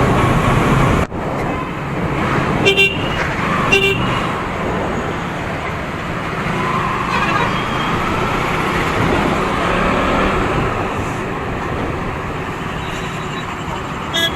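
Road traffic noise with vehicle horns honking: two short toots a few seconds in, then another near the end.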